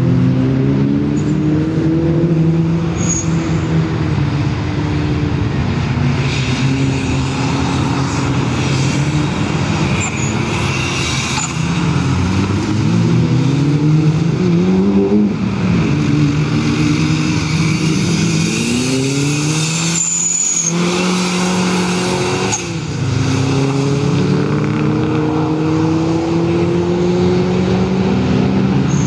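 Subaru Justy AWD rally car's engine revving hard as it is driven around a wet circuit, its pitch repeatedly climbing under acceleration and falling at gear changes and lifts off the throttle.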